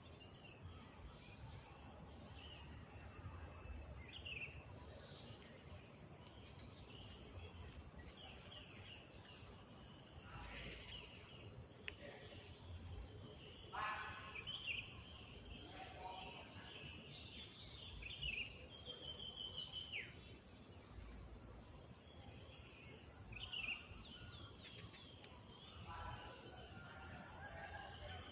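Birds chirping and trilling in scattered short calls over a steady high-pitched drone of insects, with a faint low rumble underneath.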